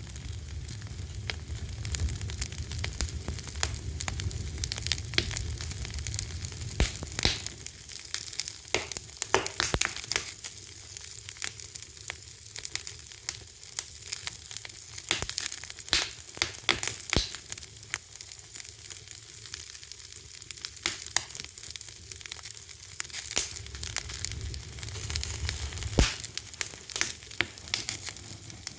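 Wood fire burning, with a steady hiss and frequent sharp pops and crackles at irregular intervals. A low rumble of the flames sits under it at the start and again near the end.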